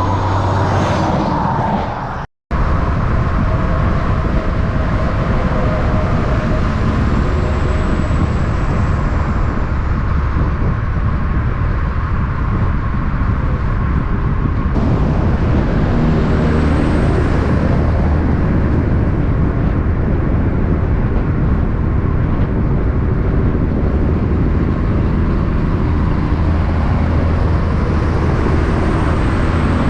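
Heavy trucks running on the road, with a steady low engine hum and tyre noise. The sound drops out briefly about two seconds in and changes character about halfway through.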